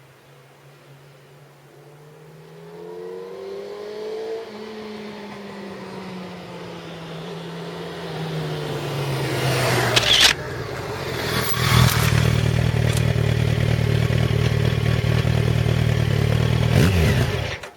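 Yamaha FZ1 Fazer's inline-four engine through its stock muffler: the note rises in pitch over the first few seconds, then slowly falls while growing louder, and settles into a loud steady run with a couple of sharp clicks before cutting off abruptly near the end.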